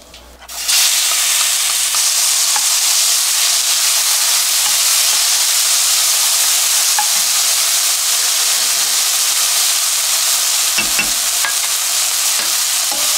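Chopped kimchi hitting hot oil in a nonstick frying pan: a loud sizzle starts suddenly about half a second in and keeps going steadily while the kimchi is stir-fried with a wooden spatula.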